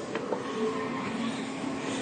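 A steady mechanical hum and rumble, with a couple of light clicks about a third of a second in.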